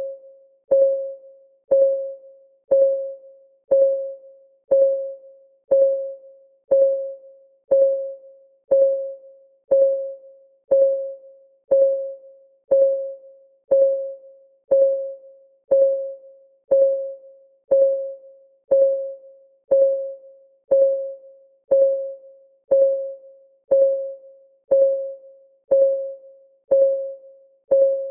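Clock ticking sound of a countdown timer: a short pitched tick once a second, each dying away quickly, evenly spaced throughout.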